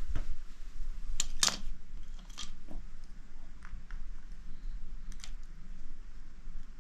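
Irregular crackles and snaps of burning wood: scattered sharp cracks a second or so apart, the loudest about a second and a half in and again near five seconds in.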